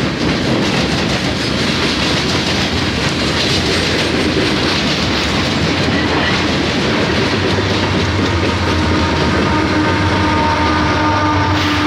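Coal train gondola cars rolling past, steel wheels clattering on the rails in a steady rumble. About three-quarters of the way in, the steady hum of a Union Pacific diesel locomotive at the tail of the train joins as it comes by.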